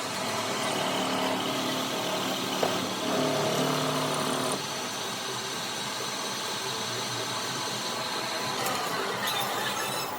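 Workshop machinery running steadily. A low humming tone with several pitches joins in about a second in and stops about four and a half seconds in, with a single click partway through.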